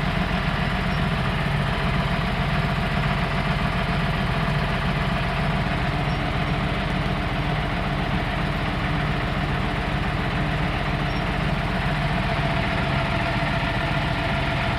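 Vehicle engine running steadily in gear while towing a stuck small jet.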